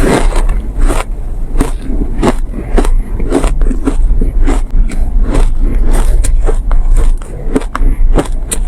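Close-miked biting and chewing of refrozen soft ice: grainy, sandy crunches, about two to three a second, with no pause.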